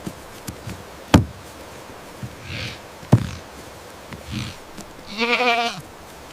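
Horse sounds: two sharp knocks about two seconds apart, a few soft breathy puffs, then a short quavering whinny near the end.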